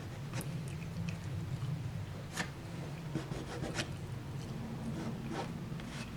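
Light, intermittent rubbing and scraping of hands pressing and working a glued cobblestone sheet into place on a timber baseboard, over a steady low hum.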